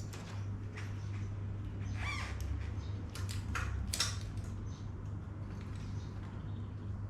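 Mountain bike parts being handled during cable work: scattered clicks and scrapes, with a short squeak about two seconds in, over a steady low hum.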